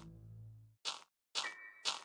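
Music dying away, then a few sharp taps about half a second apart, like cartoon footsteps. A steady high ringing tone joins them about one and a half seconds in.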